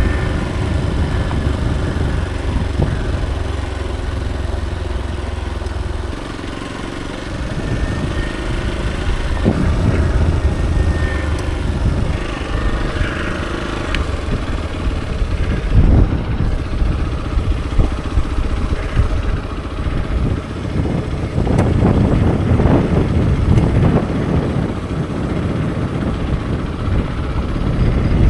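Hero XPulse 200 4V motorcycle's single-cylinder engine running on the move. The sound changes about six seconds in and is loudest in the last third.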